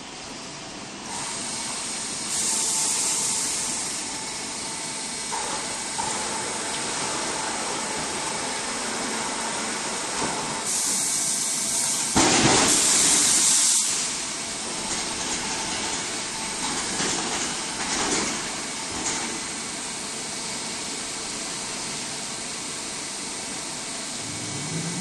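Band sawmill line running with a steady mechanical noise. Louder hissing bursts come about two seconds in and again about eleven seconds in, with a few shorter flares after.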